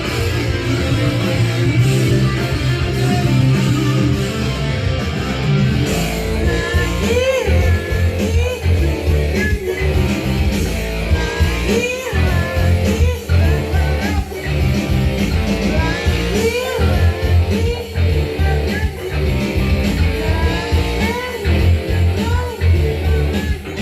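Rock music with electric guitar to the fore over a steady bass line, the guitar playing short bending melodic phrases from about six seconds in.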